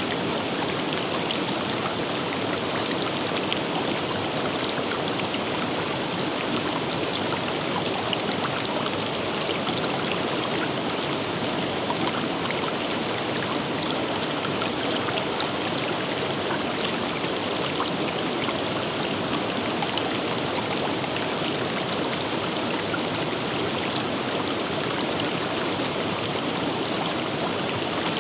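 A forest river or stream flowing over rocks, a steady rushing babble with fine splashes.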